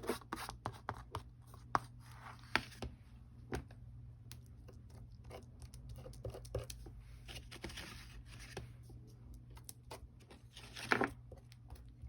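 Old kitchen knife scraping texture paste across a stencil: irregular scrapes and light clicks, with a longer, louder scrape near the end.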